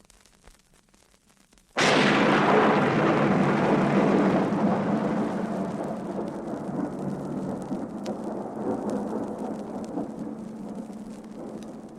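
A sudden loud crash comes in about two seconds in, after a quiet stretch of record surface crackle. It is followed by a long, noisy rumble that slowly fades away.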